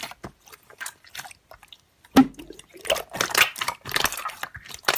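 Slime being squished and pressed by hand: a run of small wet clicks and pops, sparse at first and busier from about two seconds in.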